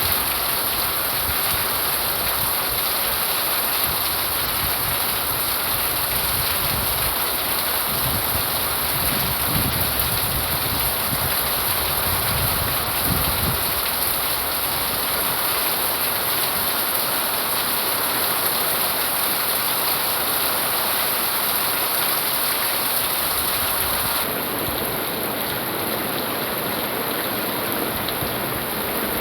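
Rain falling steadily, with a few low rumbles a third of the way in.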